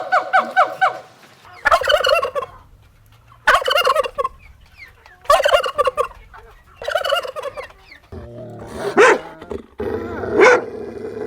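Turkey gobbling: four rapid rattling gobbles about two seconds apart. Near the end a dog's short sharp barks begin over a low steady hum.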